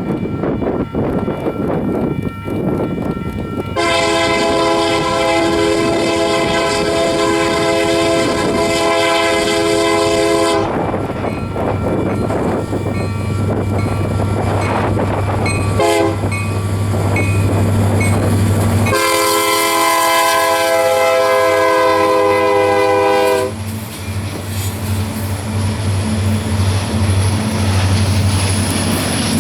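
Freight locomotive's multi-chime air horn on an approaching Union Pacific train led by an SD70M: a long blast, a brief toot, then a second long blast. Under it the low drone of the diesel locomotives grows as the train nears, with wind on the microphone before the first blast.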